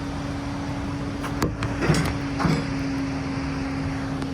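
A mobile crane's engine running steadily with a constant hum. A few short knocks sound between about one and a half and two and a half seconds in.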